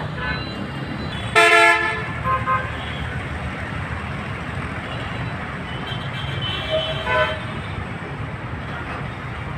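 A vehicle horn toots briefly about a second and a half in, and a fainter, shorter toot follows around seven seconds in, over steady low street and traffic noise.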